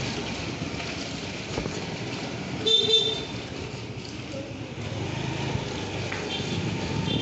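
Steady street traffic and engine noise from a moving scooter, with a vehicle horn honking once, briefly and loudly, about three seconds in, and fainter horns near the end.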